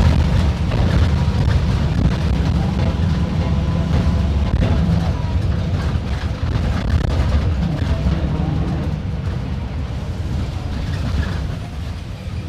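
Mercedes-Benz OF-1721 BlueTec 5 bus's diesel engine running under way, a loud, steady low rumble that eases slightly near the end.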